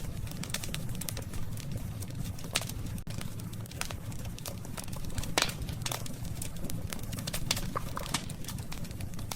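Wood fire crackling, with irregular sharp pops and snaps over a steady low rumble of the flames; the loudest pop comes about five and a half seconds in.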